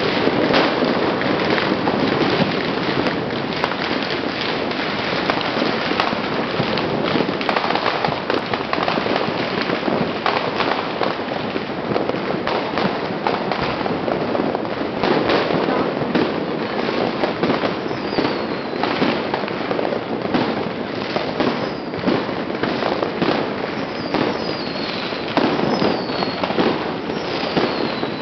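Many strings of Chinese firecrackers going off at once: a dense, unbroken crackle of bangs. A few short falling whistles come in during the second half.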